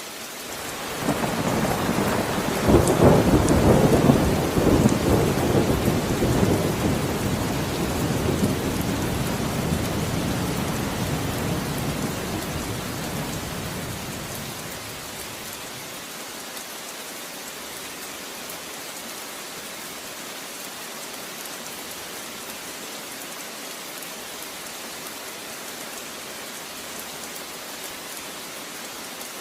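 Steady rain with a long roll of thunder that swells about a second in, is loudest a few seconds later, and rumbles away over about ten seconds, leaving the rain alone.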